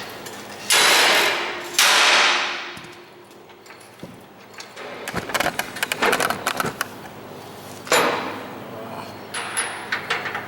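Shop tool noise while the front suspension goes onto a derby car: two loud hissing bursts of about a second each near the start, a run of metal clicks and clatter in the middle, and another sudden hissing burst near the end.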